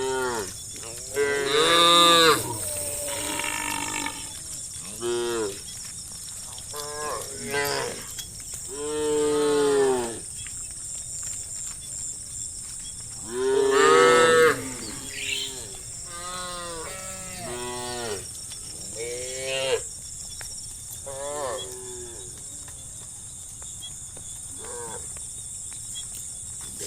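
Cows in a herd mooing again and again, many separate calls of different pitches and lengths, some short and some drawn out. The loudest calls come about two seconds in and again around fourteen seconds in.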